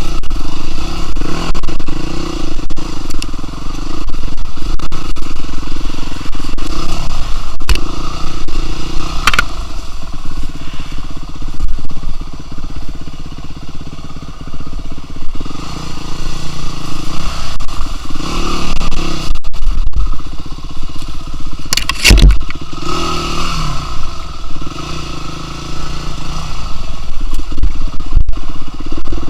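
An engine running steadily with some clatter, and a sharp knock about two-thirds of the way through.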